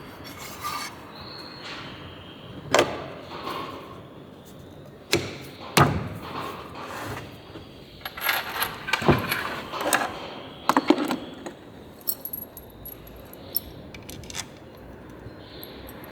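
Metal hand tools and engine parts clinking and knocking on a workbench during a small motorcycle engine rebuild. The knocks and clinks come irregularly, some with a short metallic ring, and are busiest a little past the middle.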